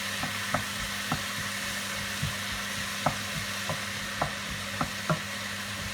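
Garlic, onions and fresh tomato sizzling in oil in a pan as they are sautéed, with a steady hiss and a stirring utensil clicking against the pan at irregular intervals.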